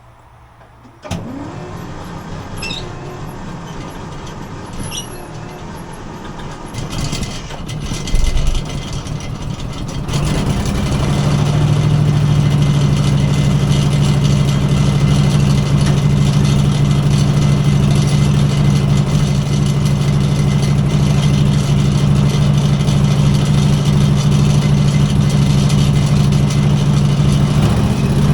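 V-twin Briggs & Stratton engine, belt-driven into an Iseki compact tractor's original crankshaft, starting about a second in and running somewhat unevenly. About ten seconds in it comes up to a louder, steady run.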